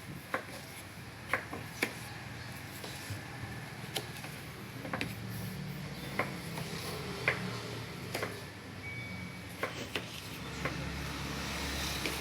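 Scattered light clicks and knocks, about one a second, over a steady low hum: kitchen handling noises.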